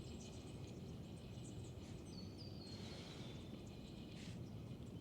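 Faint outdoor creek ambience, a steady low background rumble with faint high ticks, and a short high-pitched bird call that steps down in pitch about two seconds in.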